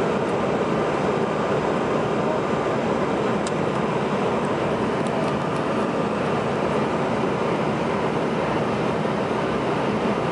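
Steady cabin noise inside a CRJ-900 on its descent: rushing airflow over the fuselage and the drone of its rear-mounted GE CF34 turbofans, with a faint steady tone running through it.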